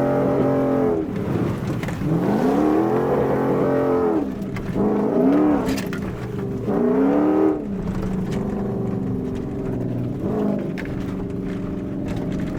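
Toyota Tundra engine revving up and falling back several times as the throttle is worked, then running steadier and lower for the last few seconds.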